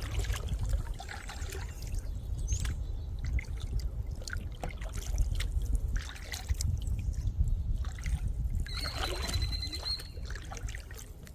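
Kayak paddle strokes with water trickling and splashing off the blade, over a steady low rumble. A brief high whistling tone sounds about nine seconds in.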